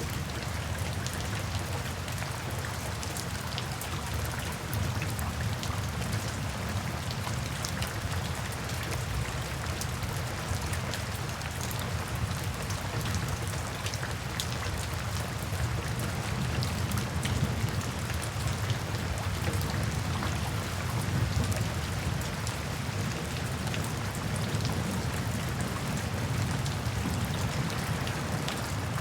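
Steady rain falling, with a low rumble beneath and many small sharp ticks scattered throughout.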